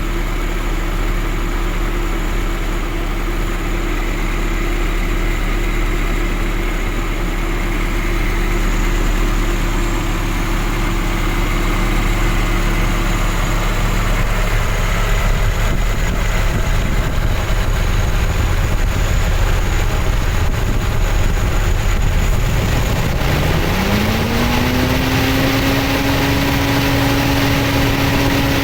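Isuzu truck engine running steadily, then revving up about three-quarters of the way through and holding at the higher speed.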